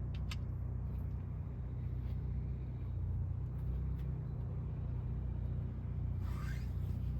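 Car engine running, a steady low drone, with two sharp clicks just after the start and a brief higher swish about six seconds in.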